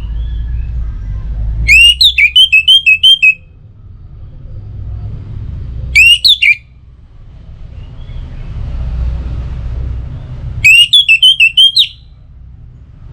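Orange-headed thrush (anis merah) singing loud whistled phrases, three times. Each phrase opens with an upslurred note and runs into a quick string of repeated notes. A low rumble runs underneath.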